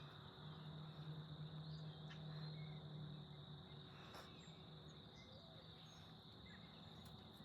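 Faint outdoor ambience: insects keep up a steady high-pitched trill, with a few faint bird chirps. A low hum sounds for the first three seconds, then fades.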